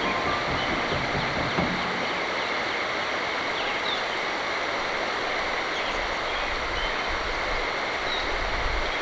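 Steady rushing of flowing water from a stream, with a few faint, short bird chirps over it.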